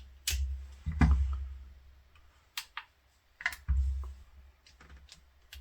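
Scattered sharp plastic clicks and a few dull knocks as a nail drill's handpiece and power cable are handled and checked.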